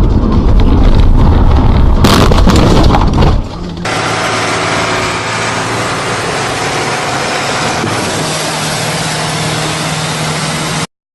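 A loud, low, rough rumble for about three and a half seconds, then a heavy machine's engine running steadily, which cuts off abruptly near the end.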